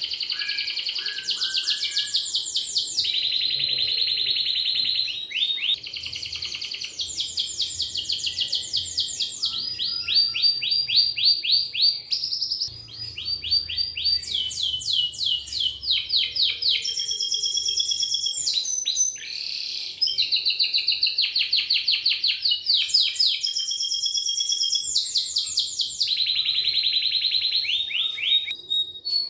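Domestic canary singing a long, continuous song of fast trills and rolls, one rapid series of notes after another with only brief pauses.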